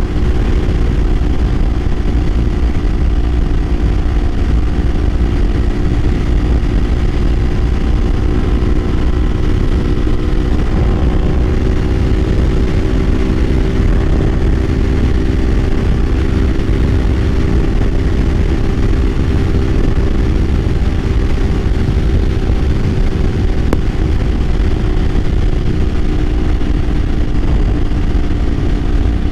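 Kawasaki Ninja 500's parallel-twin engine running steadily at cruising speed, its pitch drifting gently up and back down over a heavy low rumble.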